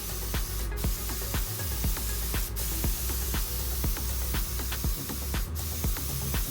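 Steady hiss of primer being sprayed onto the bare-metal floor, cut off briefly three times as the spray stops and restarts, with background music carrying a steady beat.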